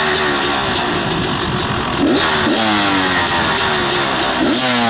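Two-stroke dirt bike engine running through its repaired FMF expansion-chamber exhaust, blipped twice: the revs rise sharply about two seconds in and again near the end, each time sliding back down to idle.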